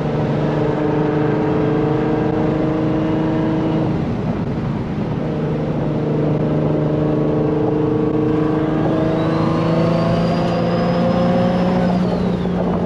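Turbocharged Nissan 350Z's VQ35 V6 pulling hard, its engine note rising steadily, breaking off about four seconds in, then rising again in a second pull. During the second pull a high turbo whistle climbs and then falls away sharply near the end.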